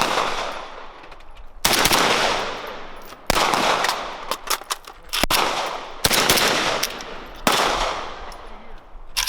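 Gunshots: about four loud reports spaced a second or two apart, each ringing out with a long echoing tail, with several fainter, sharper shots in between.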